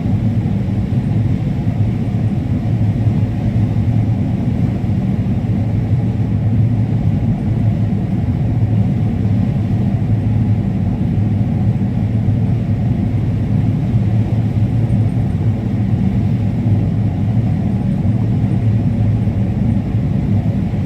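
Combine harvester running steadily while harvesting corn: a constant low drone of engine and machinery.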